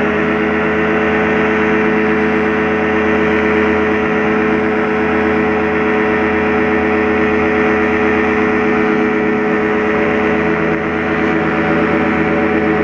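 Light aircraft's piston engine and propeller at steady full takeoff power, after throttling up just before: a loud, even drone with many overtones that holds one pitch.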